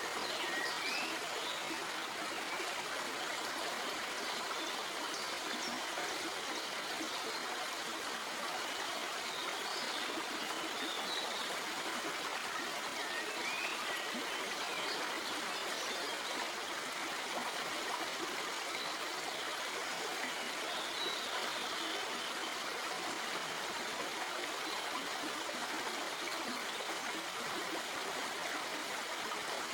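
Shallow stream flowing and splashing over rocks: a steady, even rush of water with a trickling, babbling texture.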